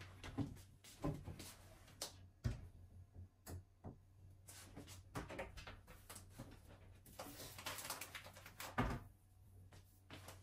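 Scattered light knocks and clicks of household objects being handled, with soft rustling between them, over a steady low hum.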